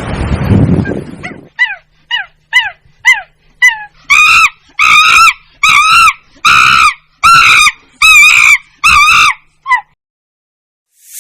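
An animal calling in a rapid series: about six short falling yelps, then about nine longer, wavering high calls, one after another about every half second.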